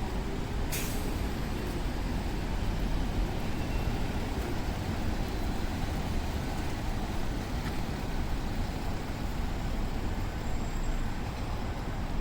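Rainy city street ambience: a steady rumble of traffic under an even hiss, with one sharp click about a second in.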